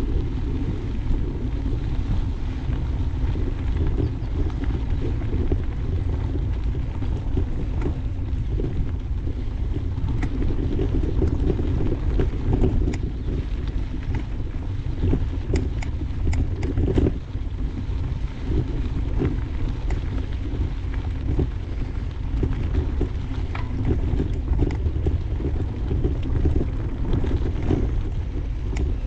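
Wind buffeting the microphone and mountain-bike tyres rolling over a dirt trail, a steady low rumble with scattered clicks and rattles.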